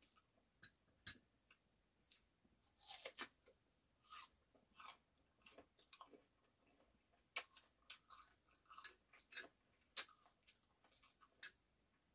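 A person chewing and eating peeled persimmon pieces close to the microphone: irregular short mouth clicks and chewing sounds, spaced unevenly, some much louder than others.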